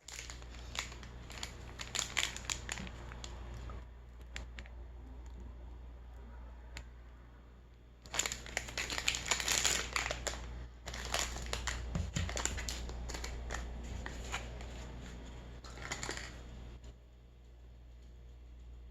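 Close-miked crinkling and crackling of someone handling and eating a moon cake, in three bursts of clicks and rustles with quieter stretches between, over a steady low hum.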